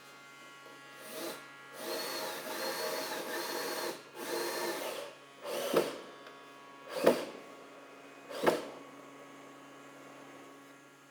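A power tool running in short bursts, then three sharp knocks about a second and a half apart.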